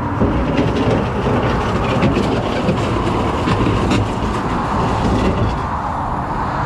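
Tow truck on the move while towing a heavy Isuzu NPR: a steady engine and road rumble with frequent rattling and clanking as the rig goes over the road.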